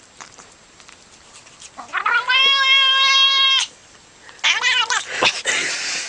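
Domestic cat yowling: one long, steady-pitched meow about two seconds in, then a shorter wavering call about a second after it ends.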